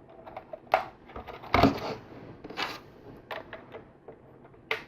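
Plastic LEGO pieces clicking and clattering as they are handled and pressed into clips, a string of short sharp clicks with the loudest clatter about a second and a half in.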